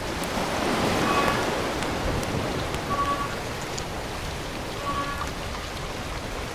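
Steady rain-like hiss, with a short high beep repeating about every two seconds.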